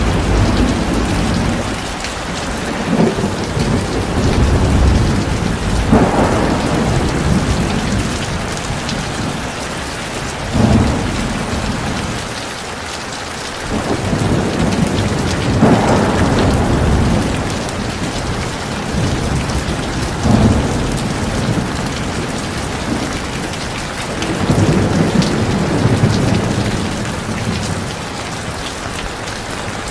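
Heavy rain pouring in a steady hiss, with thunder rumbling again and again, several peals opening with a sharp crack.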